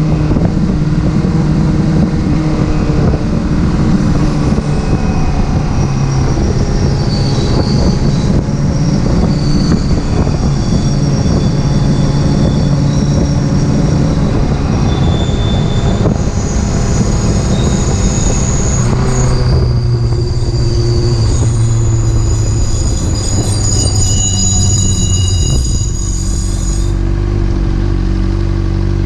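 Porsche being driven, its engine and road noise under a high-pitched metallic squeal from the brakes that wavers between several tones from about five seconds in and stops shortly before the end. The owner suspects a kicked-up stone lodged between the brake disc and its neighbouring parts.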